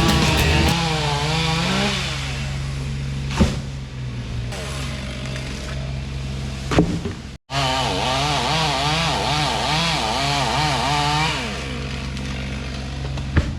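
Two-stroke chainsaw cutting through the trunk of a big old tree, its engine pitch rising and falling over and over as it works through the wood. There is a sharp knock about three seconds in and another near the middle.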